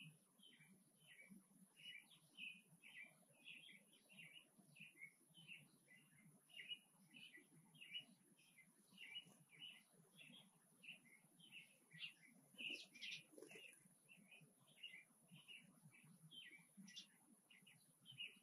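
Small birds chirping: a steady string of short, high chirps, two or three a second, a little louder about two thirds of the way through.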